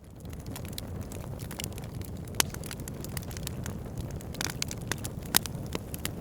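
Wood logs burning in an open fire, a steady low rumble of flames with frequent sharp crackles and pops, two of them louder than the rest. The sound rises out of silence just at the start.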